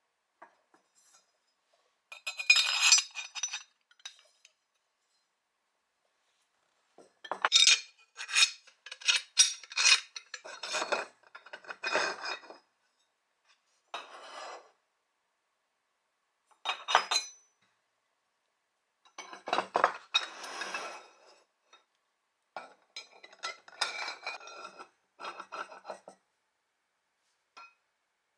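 Metal parts of a steel kindling splitter clinking and clanking as they are handled, in a string of irregular bursts of sharp, ringing knocks separated by short pauses.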